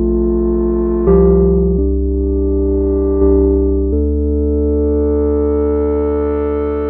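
Moog Subharmonicon synthesizer playing a slow ambient patch: sustained chords over deep subharmonic bass tones, changing every second or two. Near the middle the sound settles on one long held chord that slowly brightens.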